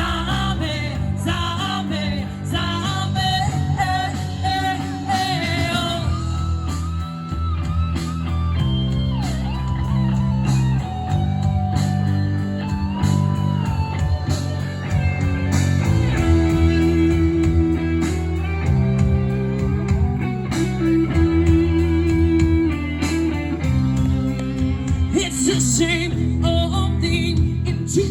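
A live rock band playing: a singer's wavering vocal line over guitar, bass and drums.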